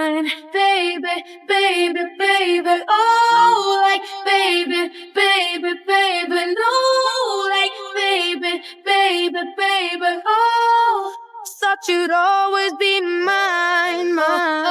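A woman's high voice singing a melody in phrases, with no instruments heard beneath it; it cuts off abruptly at the very end.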